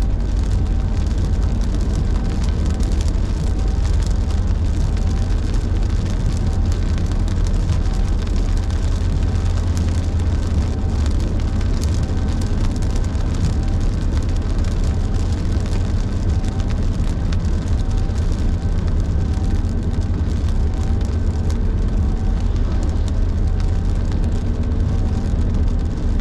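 Car driving on the highway in heavy rain: steady road and tyre rumble with the hiss of rain on the car.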